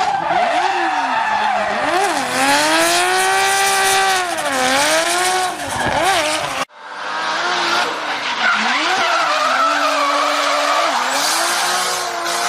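Race car engine revving hard, its pitch swinging up and down, with tyres squealing as the car slides in a drift. Just under seven seconds in it cuts off abruptly, and another car revving and skidding takes over.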